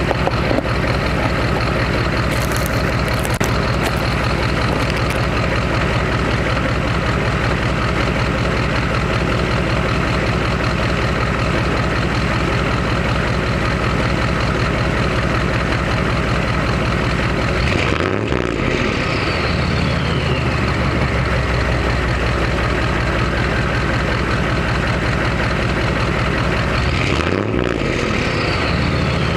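Chevrolet 6.5L turbo diesel V8 idling through a 4-inch Diamond Eye exhaust, revved twice, about two-thirds of the way in and near the end, with the pitch rising and falling back to idle each time. A high whistle falls away after each rev.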